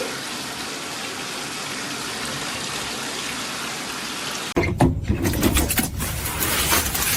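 Water running steadily from a tap, as into a filling tub or sink. About four and a half seconds in it cuts off abruptly, and a louder, irregular run of knocks and clattering follows.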